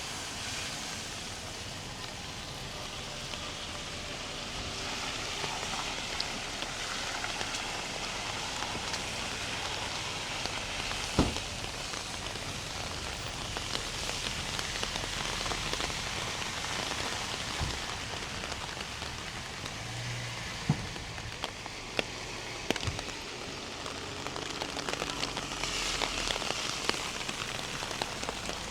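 Steady rain falling and splashing on the ground, with a few sharp knocks, the loudest about eleven seconds in.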